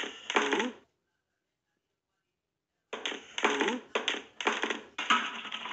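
A voice speaking in short bursts, broken by about two seconds of dead silence.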